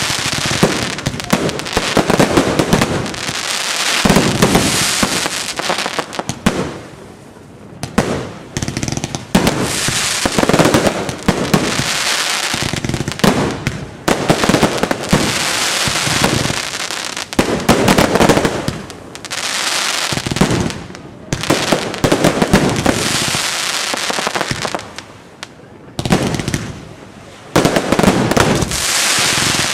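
Fireworks display: dense volleys of shell bursts and crackling, going almost without a break, with a few short lulls.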